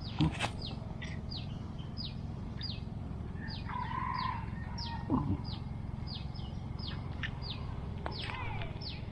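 A bird calling over and over in short, high notes that fall in pitch, about two a second, over a low steady background rumble. A couple of brief knocks come near the start and about halfway through.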